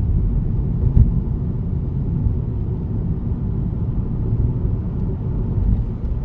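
Steady low road and tyre rumble inside a car cabin as the car coasts down a steep grade with the brakes released, with a single knock about a second in.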